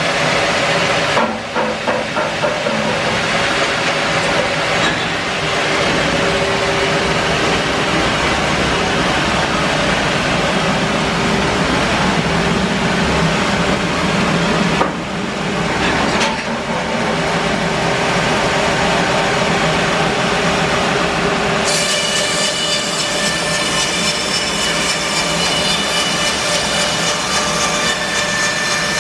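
Bandsaw mill running and cutting through a log: a steady, loud mix of engine and blade noise with brief dips. About three quarters of the way through, the sound turns brighter, with a high whine joining in.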